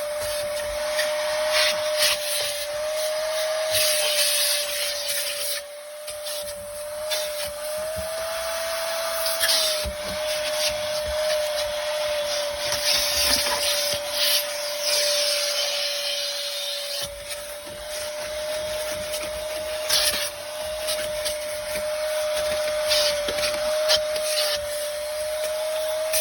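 Vacuum cleaner running, its motor holding a steady whine that rises briefly about eight seconds in, over a hiss of suction that swells and fades as the nozzle works the SUV's floor carpet, with small crackles of debris being sucked up.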